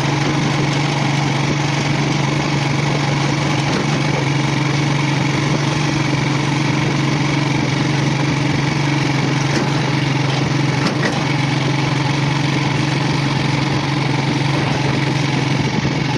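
Small engine running steadily at one unchanging pitch.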